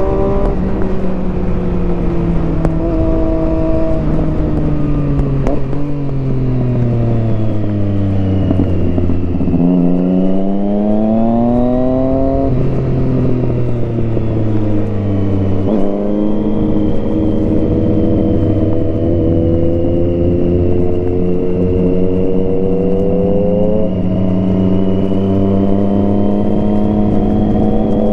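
Triumph Street Triple 675R's three-cylinder engine running through an HP Corse Hydroform exhaust under riding load. The revs fall away for the first several seconds, climb sharply for a couple of seconds, drop again, then settle to a steady cruise that slowly rises near the end.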